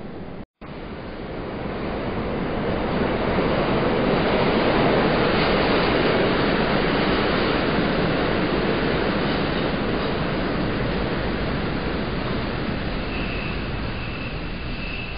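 A train passing by: a rushing rumble swells over the first few seconds, peaks, then slowly fades, with a faint high squeal near the end.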